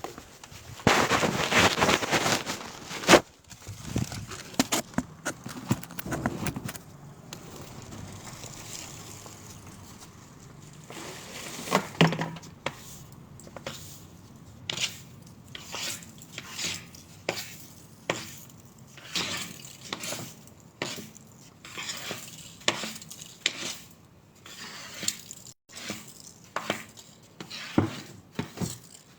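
Dishes and utensils clinking and clattering, with a short stretch of hissing noise near the start and many short, sharp knocks after it.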